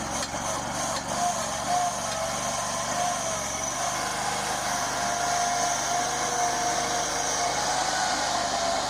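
Go-kart monster truck's Predator 670 V-twin engine running steadily, with a slightly wavering whine.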